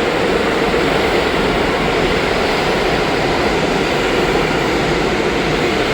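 New York City Subway 1 train pulling into an underground station: a steady, even rumble of wheels on rails with a faint steady hum.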